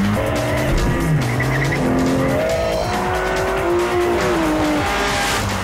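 V12 GT car engine revving hard, its pitch climbing and dropping back at the gear changes, then falling away, with a rush of tyre noise near the end. Music plays underneath.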